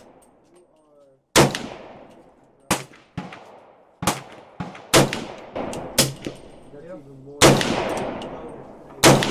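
Gunshots at a shooting range: about ten irregularly spaced shots, some loud and close, others quieter, each followed by an echoing tail.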